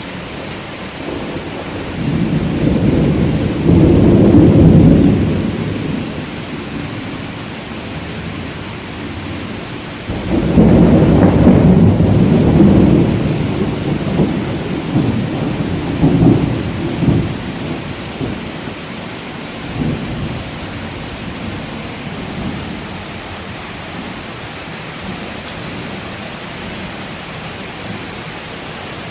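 Heavy downpour hissing steadily, with loud rolls of thunder. One rumbles in about two seconds in and fades by about six seconds. A second breaks about ten seconds in and rolls on in smaller peals until about twenty seconds, after which only the rain is left.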